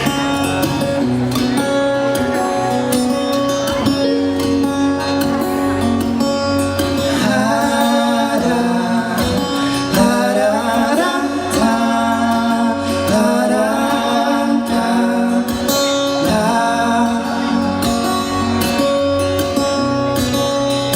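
Live pop-rock band playing the intro of a soft acoustic-guitar song, with a melody line coming in over the guitar about a third of the way through.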